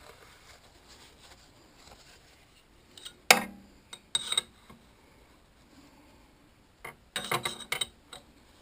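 Steel machinist's parallels clinking and knocking together as they are handled: one sharp clink about a third of the way in, another a second later, then a short run of rattling clinks near the end.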